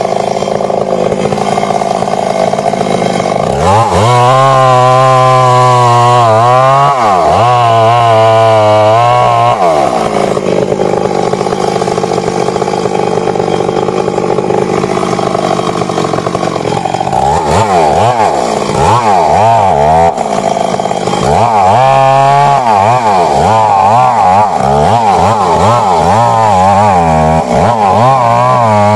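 Stihl MS 382 two-stroke chainsaw running continuously while cutting into the tree. Twice, its revs swing rapidly up and down under load in the cut, with steadier running in between.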